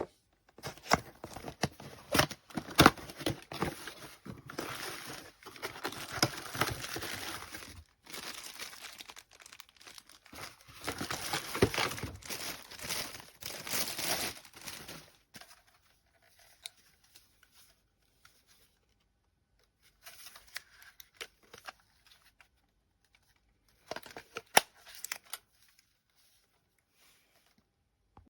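Crinkling and rustling handling noises with scattered sharp clicks, busy for the first half and then in two short bursts separated by near-quiet pauses.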